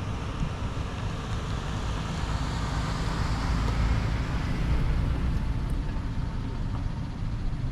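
Road traffic passing, with one vehicle rising to its loudest about halfway through and then fading away.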